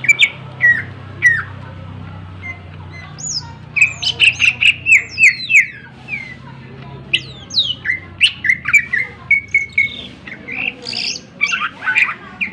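Green leafbird (cucak ijo) singing loudly in clusters of fast, sharp, downward-sliding notes with short pauses between. The song is full of mimicked calls (isian), one of which its keeper calls a duck sound.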